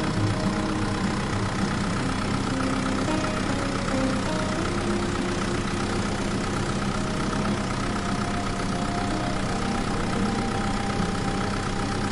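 An engine running steadily at idle, with no break in it.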